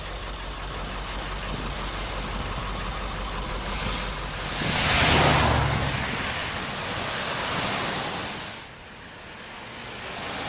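Street traffic noise: a steady rush of vehicles that swells as a motor vehicle passes close about halfway through, then drops away sharply near the end.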